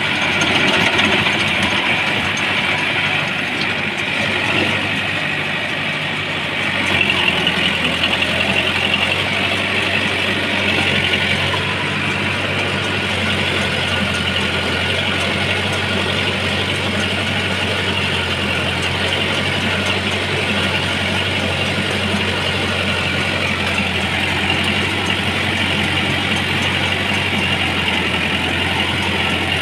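Truck engine idling steadily, a little uneven for the first several seconds and then holding an even note.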